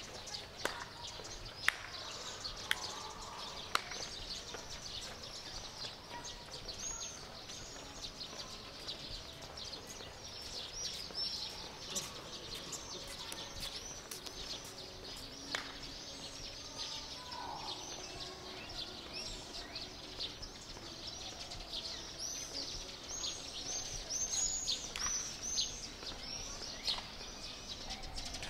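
Many birds chirping, with short high chirps overlapping almost without a break. They are thickest about ten seconds in and again near the end. A few sharp clicks come in the first few seconds.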